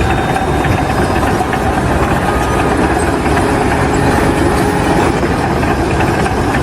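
An engine running steadily and loudly.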